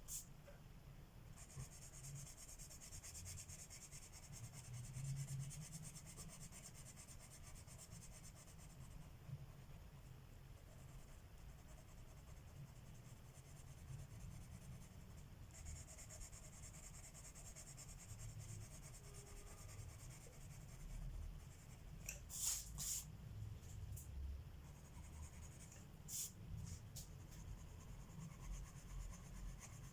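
Colored pencil shading on paper: a faint, scratchy rasp of strokes in two long spells, with a few sharp clicks about three-quarters of the way in.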